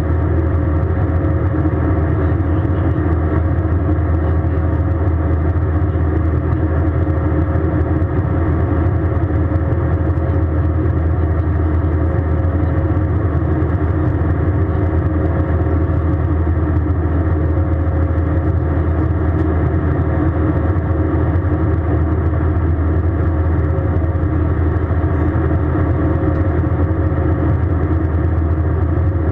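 Steady cabin noise inside an Airbus A320: an even, low drone of the jet engines and air, with a faint constant hum above it and no change in level.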